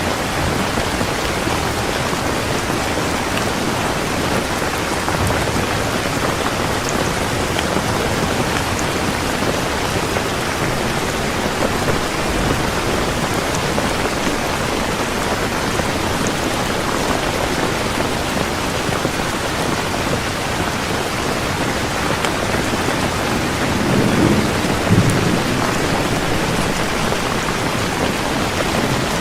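Heavy rain falling steadily in a dense, even hiss. Near the end a short low rumble of thunder swells and fades.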